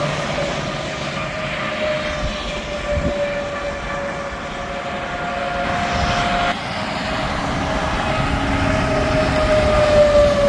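Interstate traffic with heavy trucks passing: a steady rush of tyres on the road with a whine that slowly falls in pitch, one passing vehicle's whine cutting off about six seconds in as the next one's rises.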